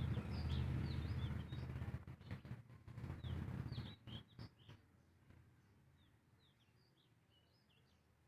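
Small birds chirping repeatedly in short, quick calls. Over the first four seconds a loud low rumble with scattered clicks runs under them, then stops, leaving the chirps alone and quieter.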